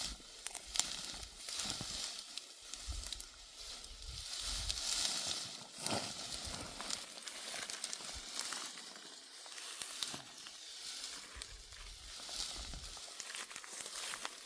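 Dry rustling and crackling of dry wheat or barley stalks being handled, with many small irregular cracks.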